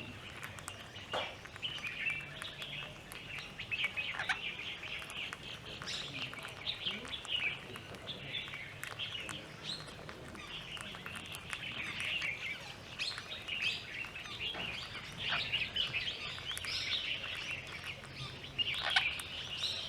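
Birds chirping and calling continuously in a dense chatter, with a few sharp calls that slide downward in pitch.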